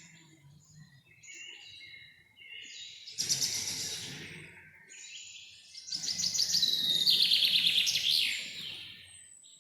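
Songbirds singing: soft chirps at first, then two loud trilled song phrases of rapid repeated notes, one about three seconds in and a longer one from about six seconds in.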